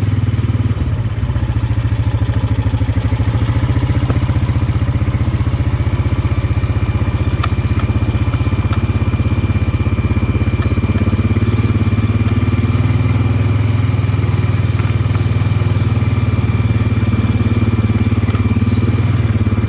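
ATV engine running steadily at a low, even pace while riding, a low rumble with rapid firing pulses. A faint high whine joins about six seconds in, with a few light clicks.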